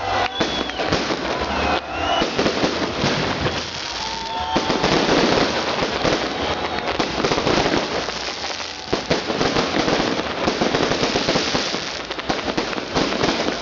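Fireworks salute going off: a dense, continuous run of bangs and crackling.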